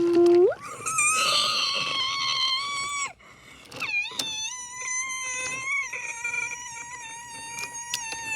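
Electric subway train's traction motors whining. The pitch jumps up sharply near the start and holds, breaks off about three seconds in, then rises again and holds steady, with scattered clicks over it.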